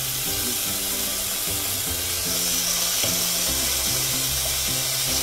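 Raw chicken pieces sizzling on the hot plates of a George Foreman indoor grill, a steady frying hiss, with background music playing underneath.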